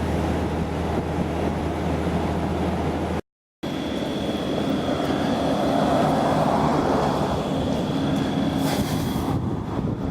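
Vehicle engine and road noise, with a steady low hum in the first three seconds; the sound cuts out for a moment, then comes back as a rushing noise that swells and peaks around six to seven seconds in.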